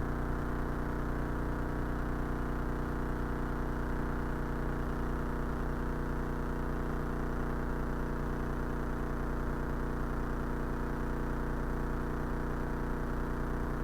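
Cessna 172's piston engine and propeller running steadily at low taxi power, an even drone with no change in pitch or level.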